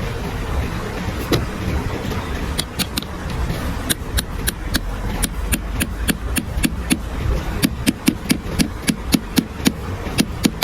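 A rapid series of sharp knocks or taps, about four a second, starting a few seconds in and getting louder towards the end, over a steady low rumble.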